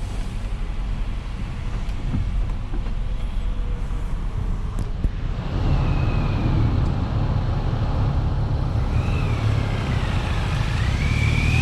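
Car and traffic noise heard from inside a car: a steady low rumble that gets louder about halfway through. Near the end a thin high tone dips and then climbs.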